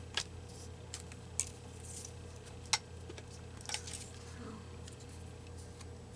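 A few scattered small clicks and snips from paper-crafting work at a table, one sharper than the rest a little before the middle, over a steady low hum.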